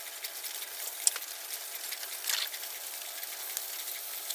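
Chopped arum flowers frying in an aluminium karai with a soft, steady sizzle, stirred with a spatula that clicks and scrapes against the pan a few times.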